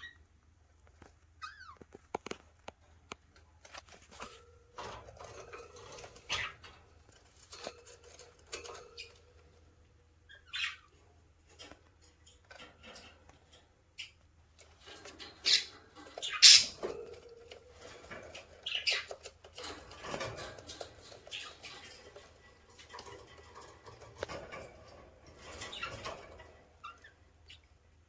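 Baby budgerigar chicks giving short chirps and squawks now and then, the loudest about sixteen seconds in, among scratching and small clicks of claws and beaks on the cage.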